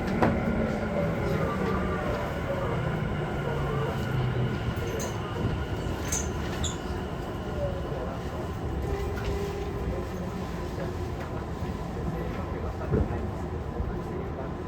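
Running sound heard inside a Tokyu 5050 series electric train car as it travels: a steady rumble of wheels on rail with faint motor tones that shift in pitch during the first few seconds. Two sharp knocks stand out, just after the start and near the end.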